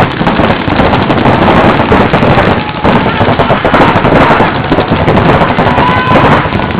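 Several paintball markers firing rapid strings of shots at once, a dense, continuous crackle of pops.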